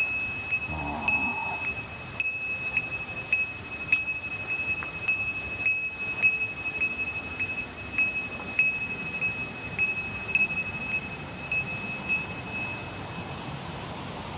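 Hiker's bear bell jingling in a steady walking rhythm, a little under two rings a second, until it stops near the end.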